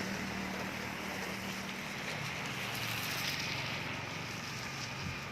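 Steady low hum of a motor vehicle engine under an even wash of wind noise.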